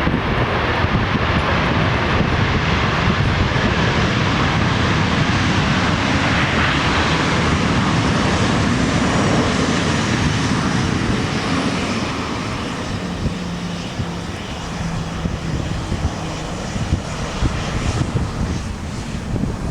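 Airliner jet engines passing close by, loud for about twelve seconds and then fading away.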